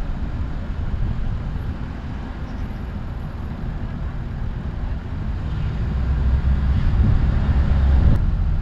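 Ford Crown Victoria Police Interceptor's V8 and road noise, a steady low rumble that grows louder over the last few seconds. A single sharp click comes near the end.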